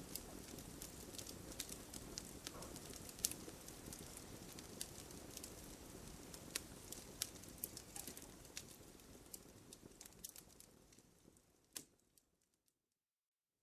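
Wood fire crackling, with scattered sharp pops over a low rustle of burning. It fades out near the end to silence.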